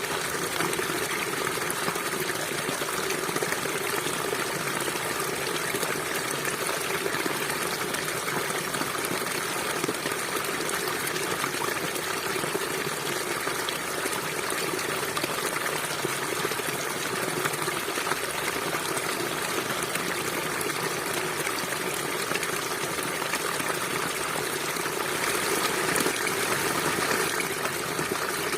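River water flowing steadily, a little louder for a couple of seconds near the end.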